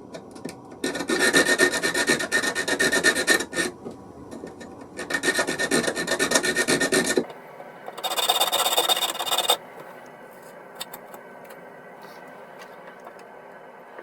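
Hand filing of a workpiece: three spells of rapid back-and-forth rasping strokes, the last one higher and brighter.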